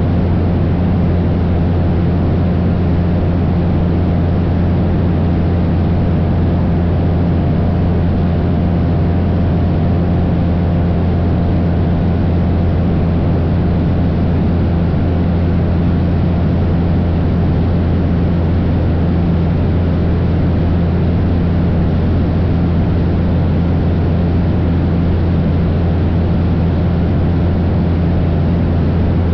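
Cessna 172's piston engine and propeller droning steadily in flight, with a strong low hum and an even rush of air noise that never changes.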